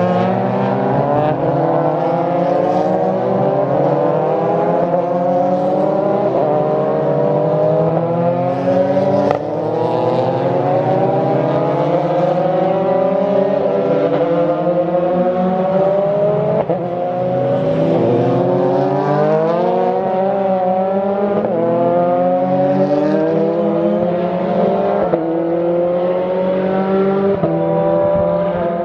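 Several F4 single-seater race car engines running hard together, their notes repeatedly climbing in pitch and dropping back as the cars accelerate and shift up out of the chicane.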